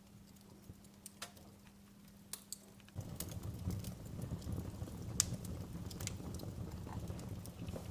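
Wood fire in a fireplace crackling, with scattered sharp pops. About three seconds in, a louder low rumble of burning comes in under the crackle and keeps going.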